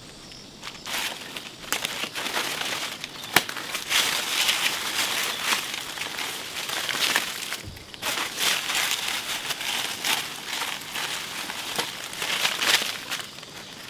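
Steady rustling and crackling with many sharp snaps, pausing briefly a little past the middle.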